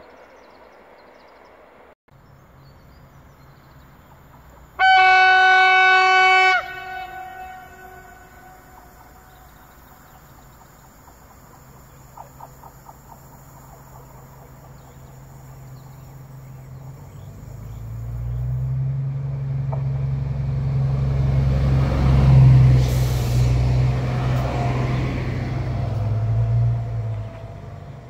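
Train horn sounding one long steady blast of about two seconds, then a train approaching and passing close with a low steady drone and rumble that builds, peaks and falls away near the end.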